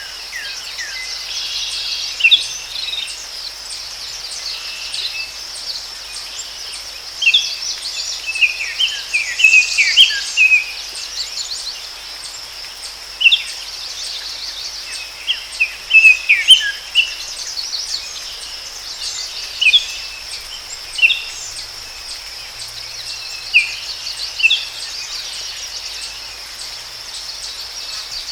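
Forest ambience: a steady, high insect drone under many short, quick, mostly falling bird chirps that come in clusters and scattered singles.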